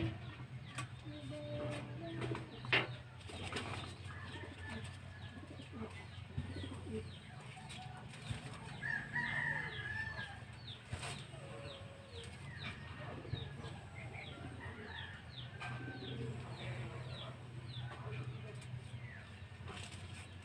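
Birds chirping, a steady run of short, high, falling chirps several times a second, with a few sharp knocks and a low hum underneath.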